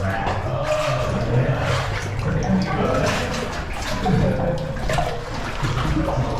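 Water splashing and sloshing irregularly as a caver moves through water in a flooded cave passage.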